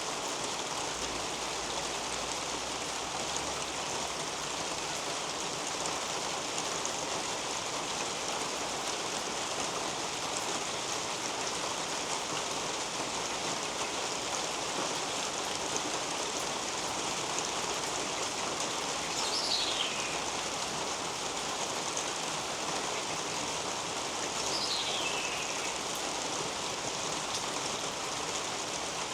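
Steady rain falling on a roof and garden leaves overhead, an even hiss. A bird twice gives a short, falling call, about two-thirds of the way through and again a few seconds later.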